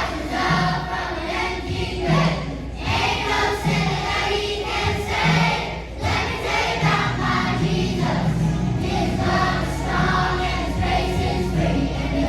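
A children's choir singing to a musical accompaniment, with a low bass note pulsing about every second and a half that grows fuller in the second half.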